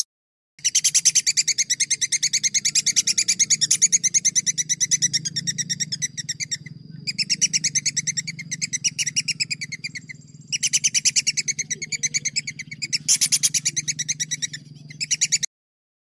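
A small songbird's rapid trill of sharp repeated notes, about ten a second, in three long runs with two brief pauses, cutting off abruptly near the end. A faint low hum lies under it.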